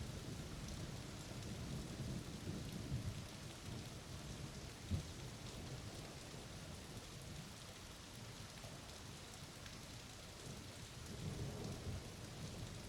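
Steady rain falling through a thunderstorm, with low rolls of thunder that fade over the first few seconds and build again near the end. There is one short thump about five seconds in.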